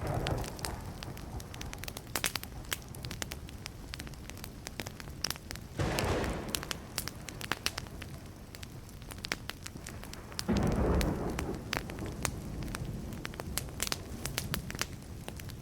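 Wood fire crackling with many sharp pops and snaps. Low rumbles of distant thunder swell up three times: at the start, about six seconds in, and about ten seconds in, each fading away.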